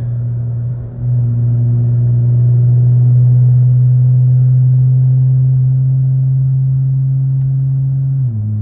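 A car's engine and exhaust droning at a steady low pitch, heard inside the cabin while cruising, settling to a lower pitch near the end.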